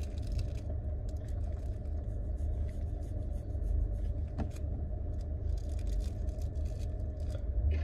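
Steady low rumble of a running car heard inside the cabin, with faint crinkling and rustling of rolling paper being handled.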